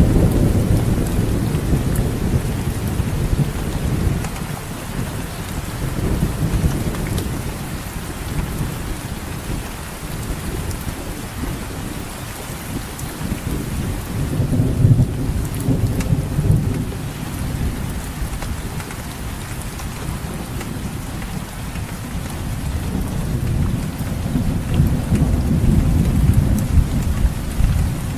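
Heavy rain pouring steadily, with a deep rumble underneath that comes and goes, swelling about halfway through and again near the end.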